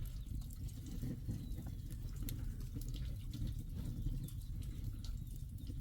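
Rain falling, with scattered sharp drips over a steady low rumble.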